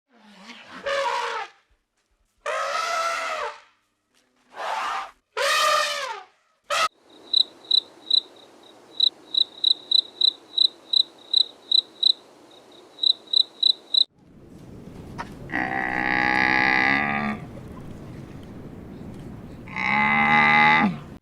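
A run of different animal calls: about five short calls, then a string of evenly spaced high peeps, about three a second, then two long, drawn-out low calls.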